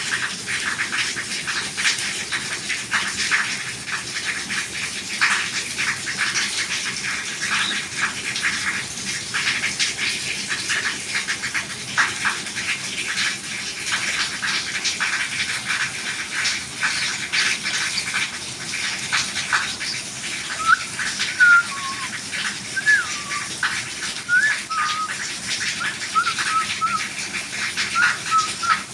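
Steady rain falling, with many sharp drips and patters. From about two-thirds of the way in, short high chirping calls come again and again.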